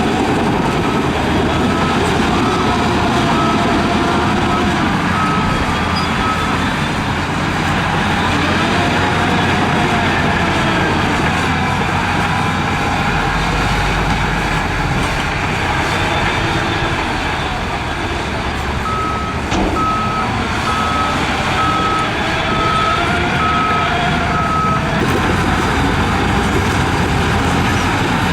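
Heavy diesel earthmoving machinery running, its engine revving up and down. A reversing alarm beeps in a regular series for the first several seconds and again in a second series past the middle.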